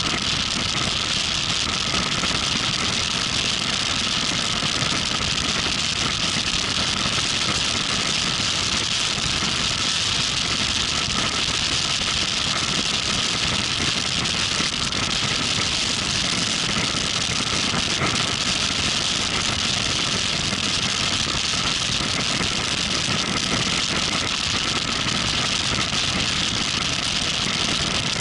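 Motorcycle engine running steadily while under way, under an even, steady hiss.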